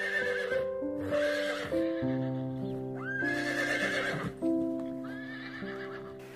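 A horse neighing four times in a row, each call about a second long, over soft background music with steady sustained notes.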